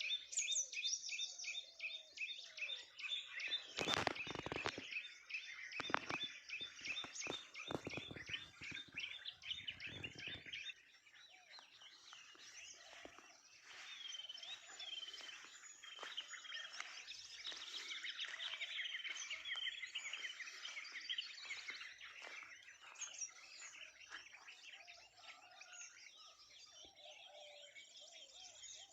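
A dense chorus of many wild birds chirping, trilling and calling over one another. From about four to ten seconds in there is a run of irregular thumps, then the birds go on alone a little quieter.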